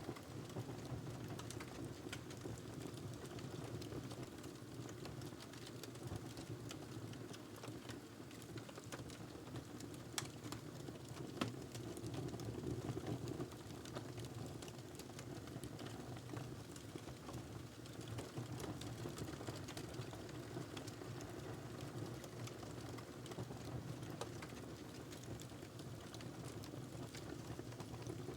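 Wood fire crackling in a fireplace: many small snaps and pops over a steady low rush of flames, with a couple of sharper pops about ten and eleven seconds in.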